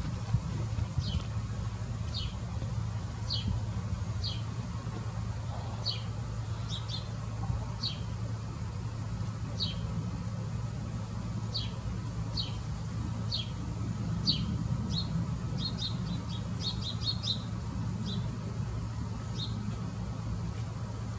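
A small bird chirping over and over, short falling chirps about once a second, with a quick flurry of them near the end, over a steady low rumble.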